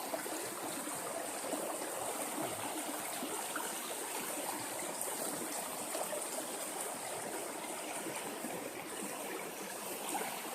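River water running over rocks, a steady rushing flow.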